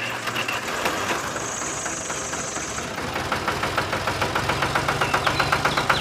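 A small motor running steadily with a rapid, even pulsing that grows plainer partway through, a low hum joining about four seconds in.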